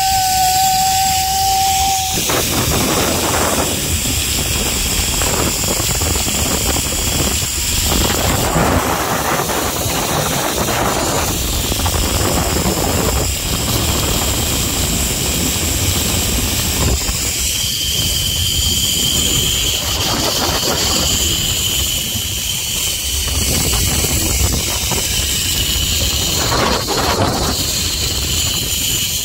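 Zipline trolley pulleys running fast along the steel cable: a steady loud rushing hiss with a thin high whine, over a low rumble of wind buffeting the microphone. A long held "woo" from the rider cuts off about two seconds in.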